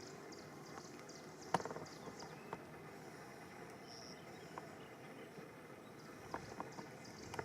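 Outdoor background ambience: a steady low hiss with faint, high, rapid chirping, broken by a sharp click about a second and a half in and a few lighter ticks near the end.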